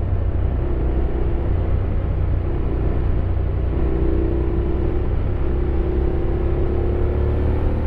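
Honda X-ADV 750's parallel-twin engine running under way on winding road, its note dipping and rising a little several times over a steady low rumble.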